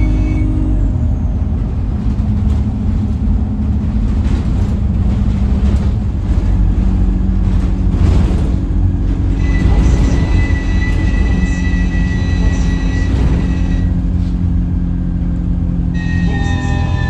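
Alexander Dennis Enviro 200 bus running with a steady low rumble and drone, a thin high whistle coming in a little past halfway for a few seconds. The whistle is the strange noise the uploader thinks comes from the gearbox, on a bus that also felt sluggish.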